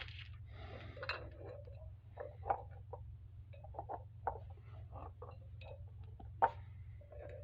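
Light clinks and taps of small metal-cupped tea-light candles being moved about and set down on a hard surface, a few sharper knocks among them, over a steady low hum.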